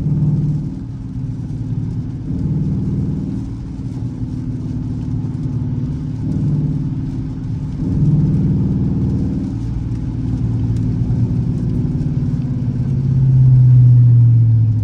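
Dodge Charger R/T's V8 engine running on the move, its hum rising and falling in pitch as the car speeds up and eases off, louder near the end.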